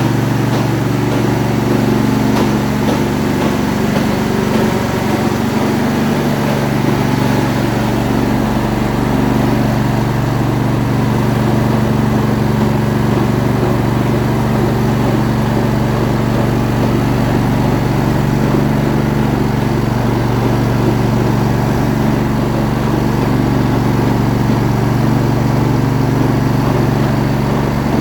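Lawn tractor engine running steadily, with a chattering from underneath that the owner puts down to a stuck belt idler pulley.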